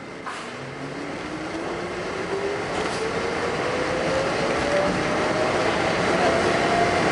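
R68 subway train accelerating away, its traction motors giving a whine that rises steadily in pitch over rumbling wheel and rail noise, growing louder throughout.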